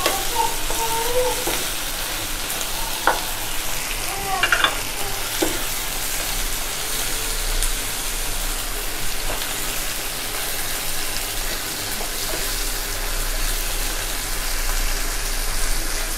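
Onions, tomatoes and cashews sizzling in butter in a nonstick pan as they are stirred with a spatula. There are a few light knocks of the spatula against the pan in the first several seconds.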